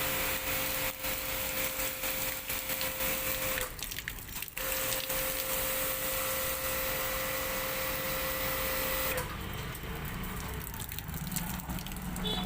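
Pressure-washer jet of water hissing as it sprays an air-conditioner outdoor unit, over a steady hum. Spray and hum break off briefly about four seconds in, and the hum stops about nine seconds in while the spray goes on.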